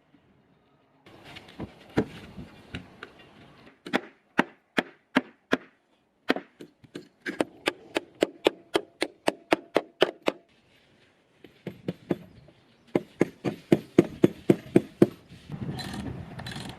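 Wood being chopped with a blade: sharp strikes in runs, some slow, others quick at about four or five a second, with short pauses between runs.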